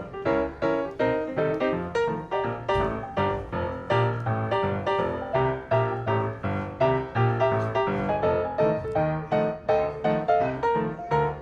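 Background piano music: a steady run of struck notes, about two or three a second.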